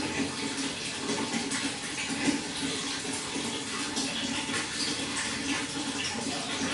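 Running water splashing steadily, with many small splashes throughout.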